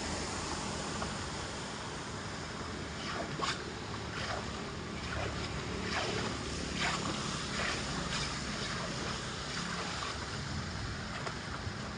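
Floodwater draining into a storm drain: a steady rushing of water, with short sharp sounds scattered irregularly through it.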